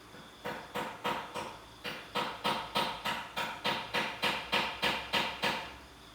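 A quick series of sharp taps or knocks, each with a short ring, about three a second: a few strikes, a brief pause, then a longer even run that stops about half a second before the end.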